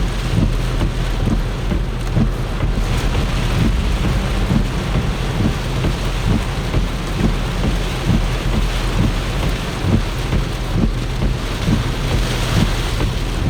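Torrential rain and gusting wind, with wind buffeting the microphone in uneven low gusts, over a vehicle's steady low hum.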